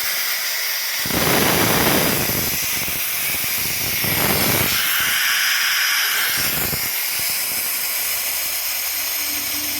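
High-pressure water jet of a car-wash pressure washer hissing steadily, with louder, fuller rushes of spray about a second in and again around four seconds in. A low hum joins near the end.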